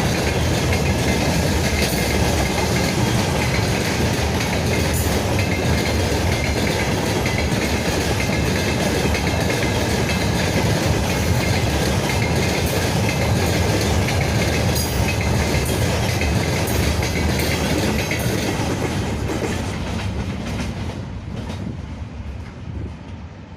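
Freight train wagons rolling past at speed, with steady wheel noise and clickety-clack over the rail joints; the sound fades away over the last few seconds as the end of the train passes.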